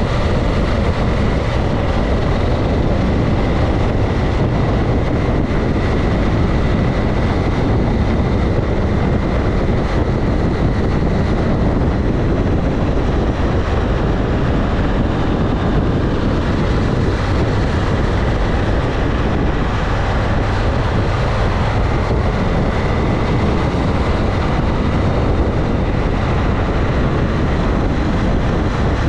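Motorcycle running at a steady cruising speed, its engine noise mixed with rushing air and a faint high whine.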